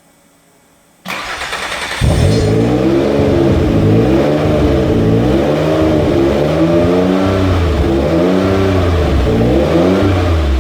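Rebuilt twin-turbo Noble M15 V6 engine starting about a second in, then revved up and down over and over as it runs for the first time after its rebuild.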